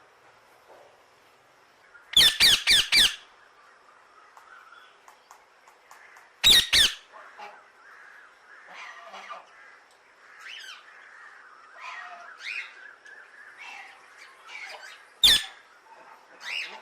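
Parrot squawking: a quick run of five loud, harsh squawks about two seconds in, then two more a few seconds later. Softer scattered calls follow, with one more loud squawk near the end.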